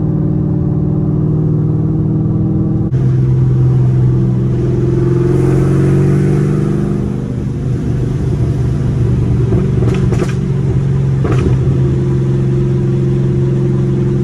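A 2011 Camaro SS's cammed LS3 V8 with straight-pipe exhaust, running loud and steady inside the cabin while driving. Its note changes abruptly about three seconds in, and two sharp clicks come near the end.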